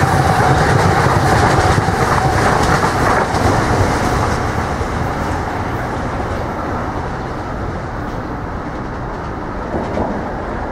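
Metro-North commuter train passing at speed: wheels clacking over the rail joints under a steady whine, the sound slowly dying away as the train moves off.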